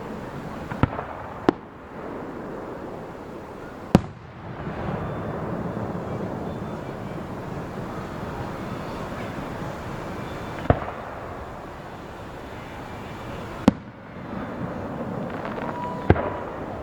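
Aerial fireworks shells bursting: about six sharp bangs at irregular intervals, the loudest about four seconds in, with a steady rush of noise between them.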